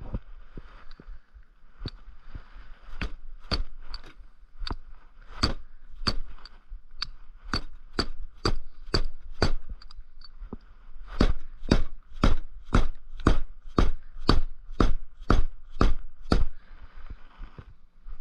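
Repeated sharp metal-on-metal knocks during motorcycle swingarm linkage bearing work, each ringing briefly. They are sparse at first, then steady at about two a second, and stop near the end.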